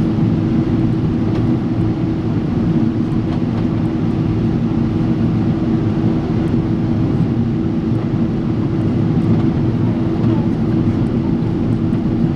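Steady cabin noise of a Boeing 777-300 airliner: an even rush of engine and air noise over a constant low hum, with no change in level.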